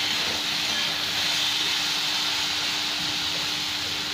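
Diced potatoes and tomatoes sizzling steadily in hot oil in a kadai, an even frying hiss.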